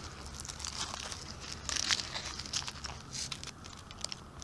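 Irregular crackling and crinkling rustle, like handling noise against the camera microphone, over a faint steady low rumble.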